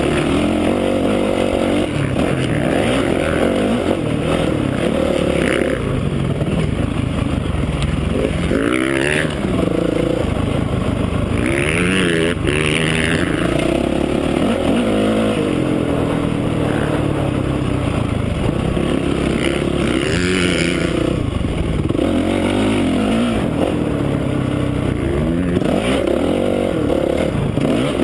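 Honda CRF450R's single-cylinder four-stroke engine being ridden hard, its pitch rising and falling over and over with the throttle and gear changes.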